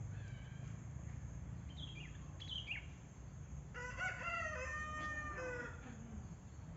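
A rooster crows once about four seconds in, a single call of about two seconds. Before it come a few short, falling bird chirps, over a low steady rumble.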